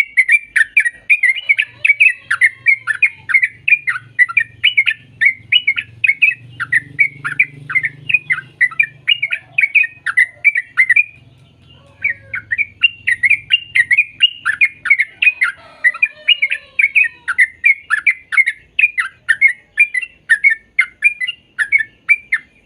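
Yellow-vented bulbul (trucuk) singing a rapid, bubbling run of short chattering notes, several a second. It breaks off for about a second a little before the middle, then goes on.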